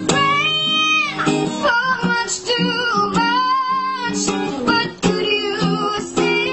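A child singing to guitar accompaniment, holding long notes with vibrato.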